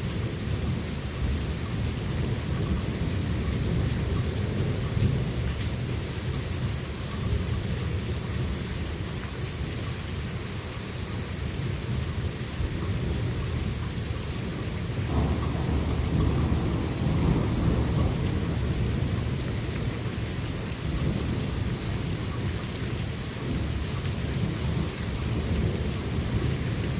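Thunderstorm: steady rain hissing, with rolling thunder that builds twice, the second roll starting about halfway through and lasting several seconds.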